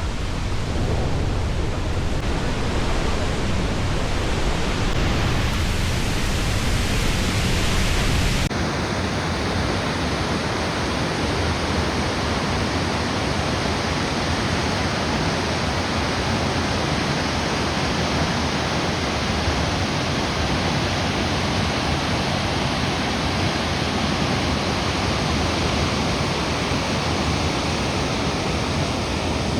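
Steady rushing roar of a large waterfall. About eight seconds in, the sound changes abruptly and its deep rumble drops away.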